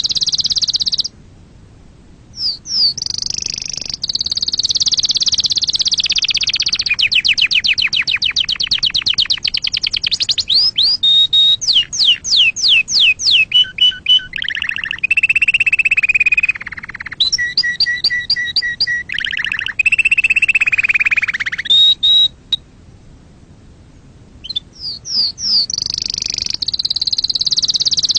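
Domestic canary singing a long song made of fast repeated trills and rolls, some notes sweeping sharply and some held as steady whistles. It breaks off briefly twice, about a second in and again late on, before starting up again.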